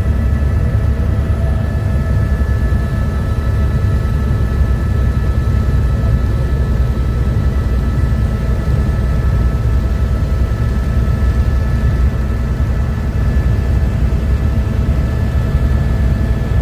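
Helicopter running steadily in flight: a dense, fast low rotor beat with a constant whine of several steady tones above it.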